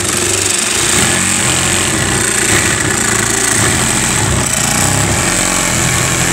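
Cordless battery-powered saw cutting through a sheet of plywood in one long, steady pass.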